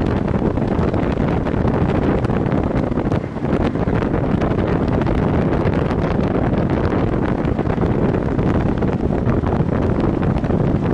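Steady, loud wind noise buffeting the microphone on a moving motorcycle, with the running of the Viper V250C cruiser mixed in underneath.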